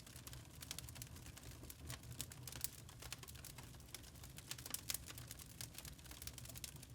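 Wood fire crackling in a fireplace: many quick, irregular snaps and pops over a steady low rumble.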